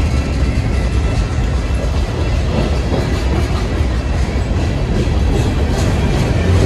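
Train rolling along the rails: a steady, loud rumble of wheels on track with some clicking.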